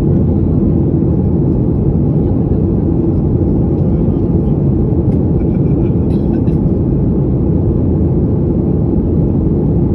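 Boeing 737's jet engines and airflow, heard inside the cabin as a steady low rumble in flight, with a few faint clicks about midway.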